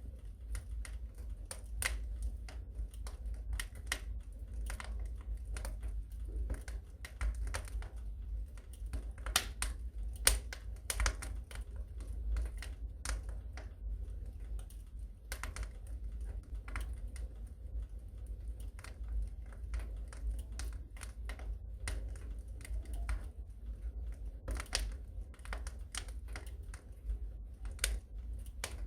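Wood fire burning in a fireplace, crackling with sharp irregular pops and snaps over a low steady rumble.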